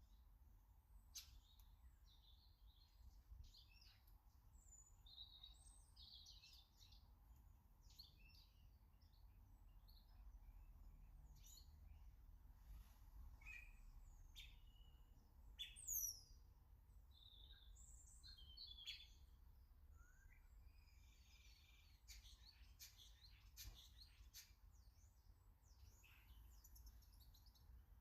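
Small garden birds chirping and calling, with many short high notes of varying pitch overlapping throughout. The loudest is one quick downward-sliding note about halfway through.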